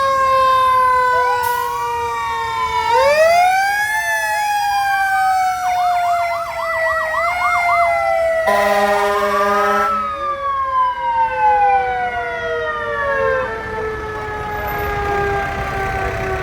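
Several fire truck sirens sounding together: long wails that slowly fall in pitch, overlapping rising-and-falling wails, and a fast warbling yelp about six seconds in. A horn blasts for about a second and a half around eight and a half seconds in.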